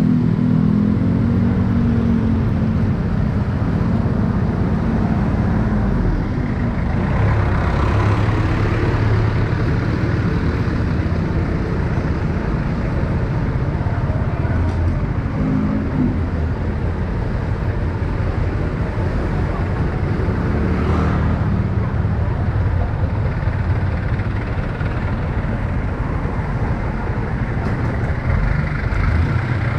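Motorcycle engine running steadily while riding through city traffic, with road noise from passing vehicles.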